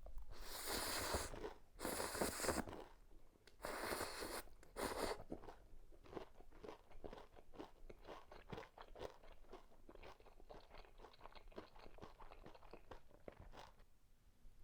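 Bites and chewing of crispy breaded pork cutlet: four loud crunches in the first five seconds, then steady crunchy chewing at about three chews a second.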